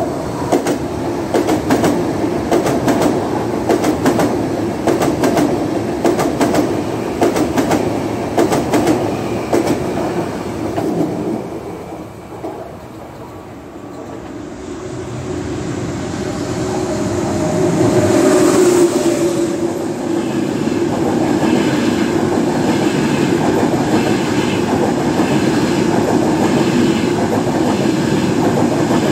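Frecciarossa 1000 high-speed electric trains passing through a station. In the first ten seconds or so the wheels click rapidly over rail joints as one train goes by on a far track. After a lull about twelve seconds in, a second train approaches and is loudest as it draws alongside; it then rolls close past with a steady rumble and its wheelsets clicking over the joints about once a second.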